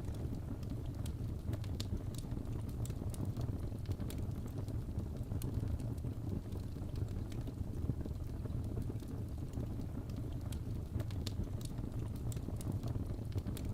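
Crackling wood fire: a steady low rumble of flames with many small, irregular crackles and pops.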